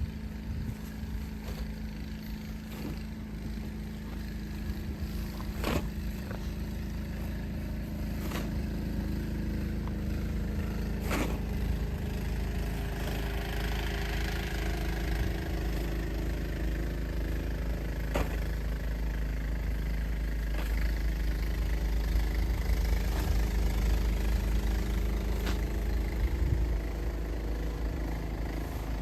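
A vehicle engine running steadily, with a few sharp knocks or clicks scattered through.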